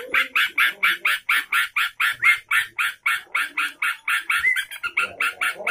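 Yellow-vented bulbul (trucukan) calling insistently in a rapid, even series of short harsh notes, about seven a second.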